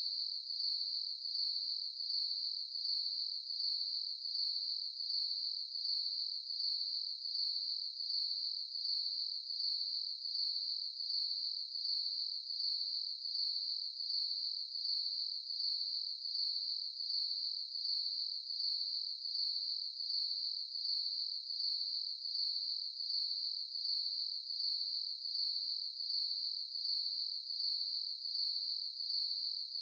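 Crickets chirping in a steady, high-pitched, evenly pulsing chorus.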